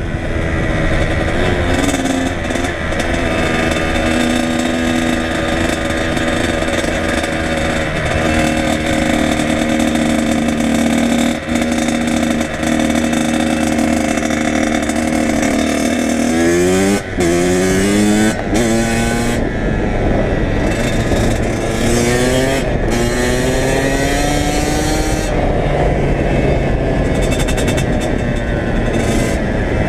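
Kawasaki KX100 two-stroke dirt bike engine running under way, holding fairly steady revs, then revving up in several quick rises that drop back as it shifts gears about halfway through, and climbing again after that.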